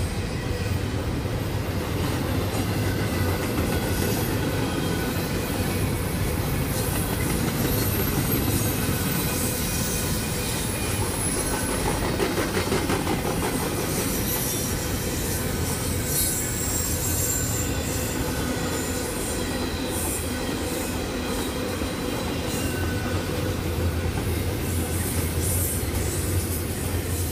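Double-stack intermodal freight cars rolling steadily past, steel wheels running on the rails in a continuous rumble, with occasional thin, high wheel squeals.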